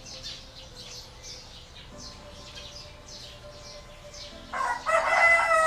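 A rooster crowing: one long call that starts about three-quarters of the way in and is the loudest sound. Before it, a small bird chirps over and over in quick, high notes.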